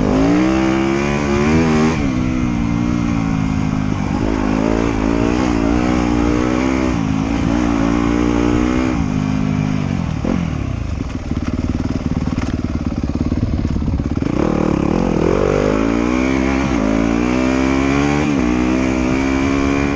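Motorcycle engine under way on a trail, its pitch rising and falling over and over with the throttle. It eases off about ten seconds in, then revs back up a few seconds later.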